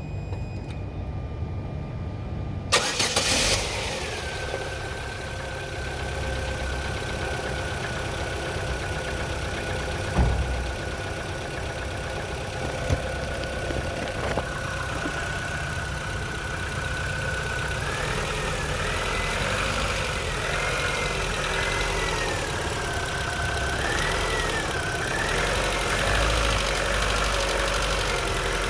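Chevrolet Lacetti 1.6 four-cylinder engine starting about three seconds in, then idling with a steady whine that rises and falls in the last third. It is the cold-start run of an engine with a knock the owner cannot place, a hydraulic lifter or something else, which he says is loudest when cold.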